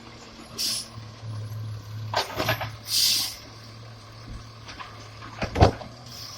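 Garbage truck engine idling with a steady low hum, broken by two short air hisses and a run of metallic clanks. The loudest is a sharp bang about five and a half seconds in.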